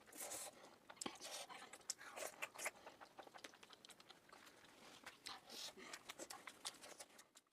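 Close-miked chewing and biting of momo dumplings, quick wet smacks and sharp crunchy clicks, sped up to double speed.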